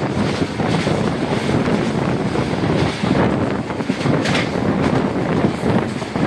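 Express passenger train running along the track, heard from an open door: a steady rumble of wheels on rails, with wind buffeting the microphone.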